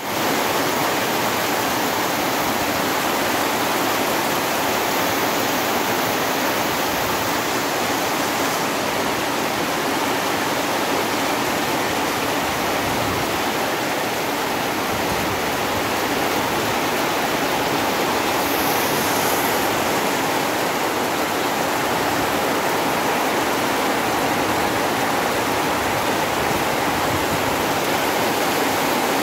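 Heavy rain pouring steadily on trees and grass: a dense, even hiss that holds its level throughout.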